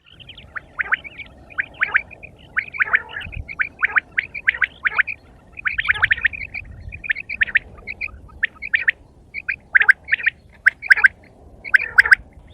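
Quail calling: a rapid run of short, high chirping notes, several a second, with a few sharper, louder calls toward the end.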